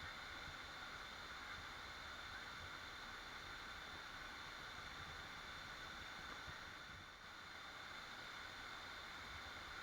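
Waterfall rushing steadily: an even hiss of falling water, dipping slightly about seven seconds in.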